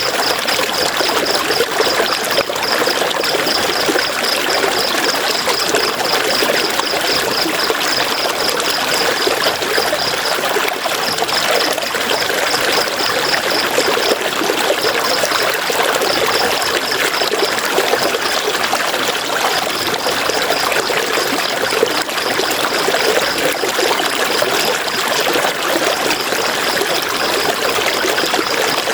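River water flowing and splashing over rocks, a steady rushing. Over it runs a high, rapid pulsing chirp in stretches that stop and start again.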